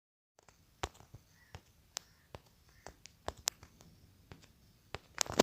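A scattered series of small, sharp clicks and taps at irregular intervals, with a louder cluster near the end.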